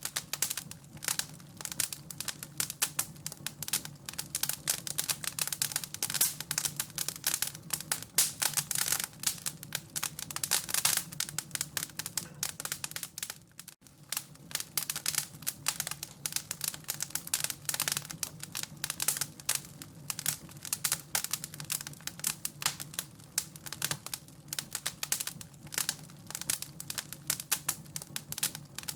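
Wood fire crackling in a fireplace: a dense run of irregular snaps and pops over a steady low hum, broken by a momentary gap about halfway through.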